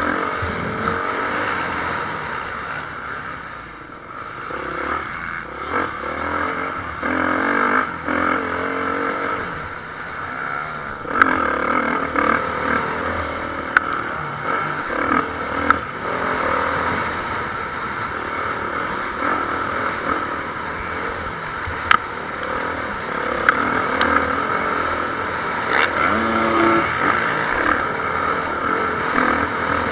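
Motocross bikes racing, their engines revving up and down as they pass, with several sharp clicks scattered through.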